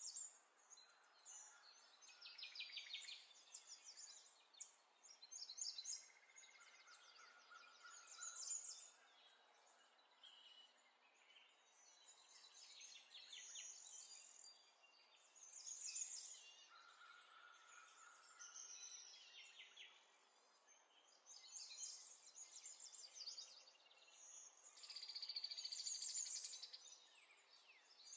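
Faint birdsong: repeated high trilled chirps, with a couple of held whistled notes.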